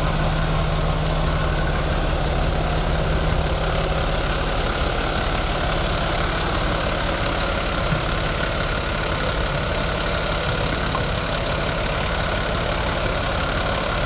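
Fire truck engine running steadily, a low, even drone.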